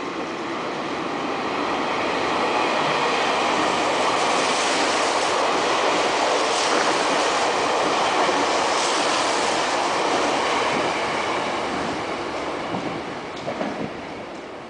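Meitetsu train passing through the station without stopping, its running noise building up, holding loud, then fading away as it goes by.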